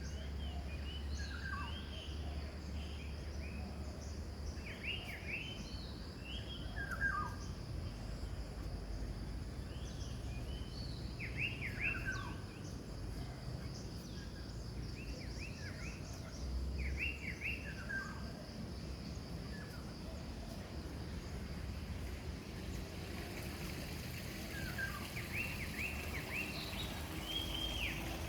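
Wild birds singing: short chirps and quick downward-sweeping notes, coming in clusters every second or two, over a steady low background rumble.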